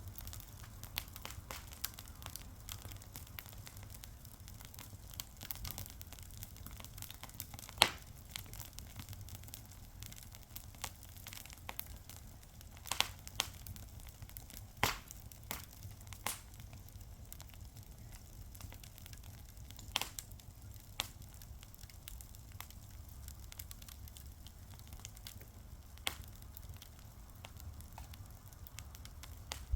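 Fire crackling, with constant small snaps and a handful of louder pops, the loudest about eight seconds in, over a faint low rumble.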